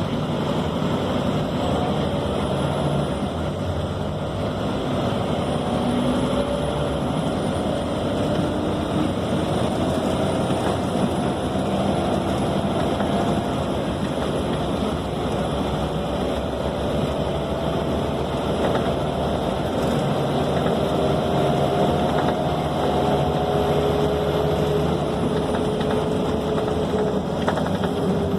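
Scania K270 city bus in motion, heard from inside the passenger cabin: steady engine and road noise, with a faint whine that slowly rises in pitch and drops near the end.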